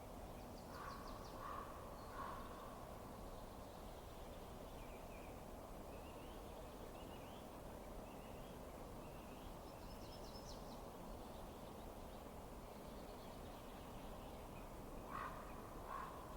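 A few short, harsh bird calls over a steady low rushing noise: three near the start and three more near the end, with faint high chirps in between.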